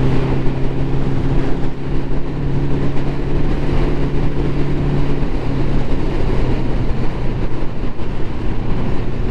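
Ducati motorcycle engine running steadily under way, with wind and road rush. About five seconds in, the engine note drops away, as if the throttle is closed, leaving mostly wind noise.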